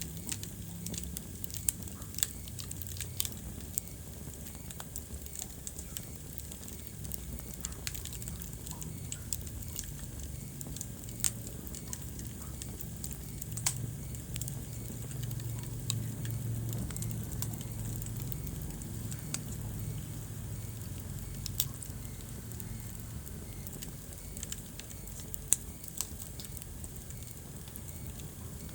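Wood fire burning in a fireplace: scattered sharp crackles and a few louder pops over a steady low rumble of the flames.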